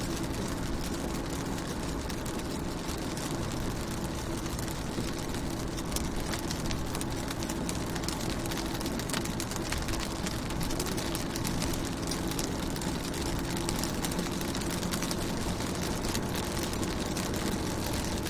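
Rain falling on a car, with many fine drop ticks over a steady hiss, and a steady low hum beneath.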